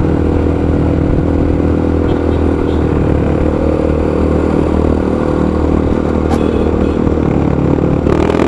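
Motorcycle engine running at a steady pitch, with a sharp click about six seconds in and the engine noise swelling near the end.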